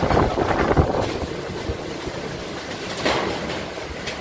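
Strong, gusty storm wind buffeting the microphone with a low rumble, with a short rattle about three seconds in.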